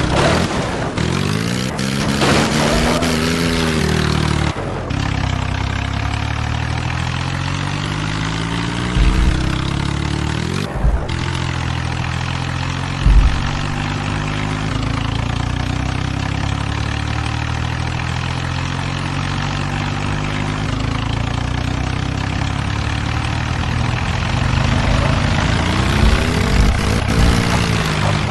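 Tractor diesel engines running hard under load, revving up and down in the first few seconds and again near the end, with steady running in between and a few short thumps.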